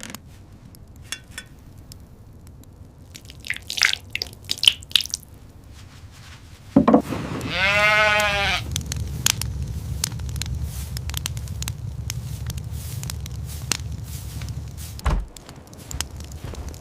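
A single wavering animal bleat about a second long, roughly halfway through, over a steady low rumble that sets in just before it; scattered clicks come earlier.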